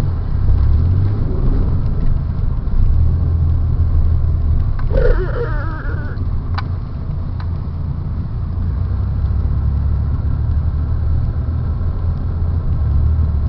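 Front-wheel-drive car driving through snow, heard from inside the cabin: a steady low engine and road rumble. A short pitched sound comes through about five seconds in.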